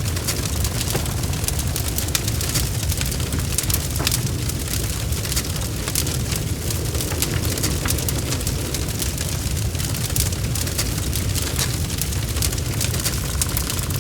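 Fire in a fireplace crackling and popping, dense irregular snaps over a steady low rumble of the flames.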